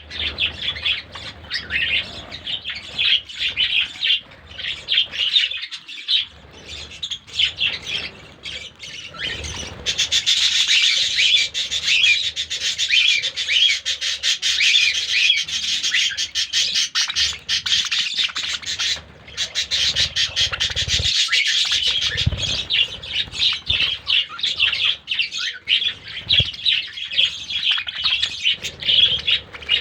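A flock of lovebirds and budgerigars chirping and chattering without pause, busier and louder from about ten seconds in.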